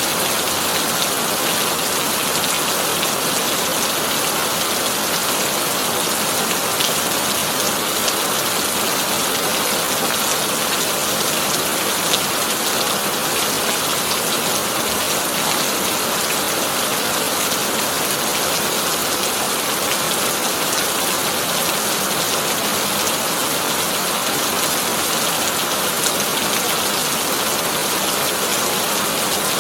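Heavy rain drumming steadily on a corrugated tin roof, with a few sharper drop ticks now and then.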